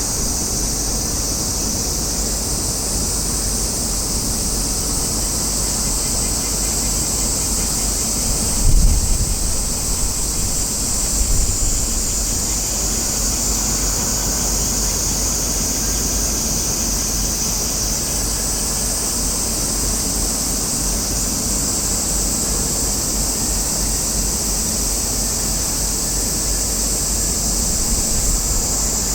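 Wind blowing across the microphone at a harbour, a low rumble with a gust about nine seconds in, under a steady high-pitched hiss.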